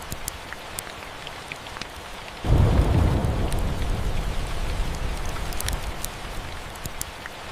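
Steady rain with the scattered crackle of a wood fire. About two and a half seconds in, a roll of thunder comes in suddenly, a deep rumble that slowly fades over the next few seconds.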